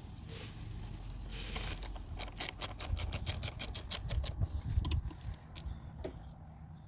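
Hand socket ratchet clicking in a quick, even run for about two seconds as a fastener is taken out to remove a part, followed by a few loose metal tool clicks.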